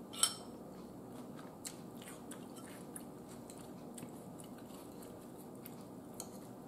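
Close-up mouth sounds of a person chewing food, with soft lip-smacking and faint wet clicks. There is one sharper click about a quarter second in.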